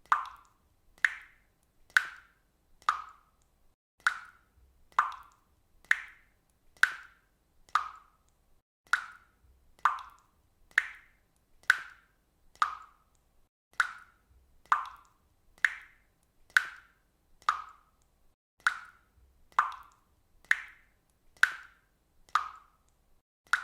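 Water dripping: single drops fall at a steady pace of about one a second, each a short, sharp plink.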